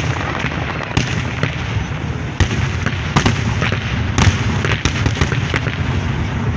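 Aerial fireworks shells bursting in quick succession: a dozen or so sharp bangs at uneven intervals, the loudest about four seconds in, over a steady low rumble.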